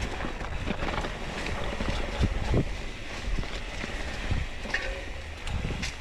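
Carbon hardtail mountain bike riding over rocks on singletrack: tyres rolling and the bike clattering with a few sharp knocks, over a steady rumble of wind on the microphone.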